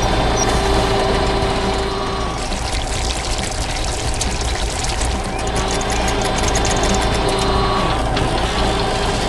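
Construction machines' engines running steadily, with a stretch of rattling and clanking in the middle as the excavators dig and lift.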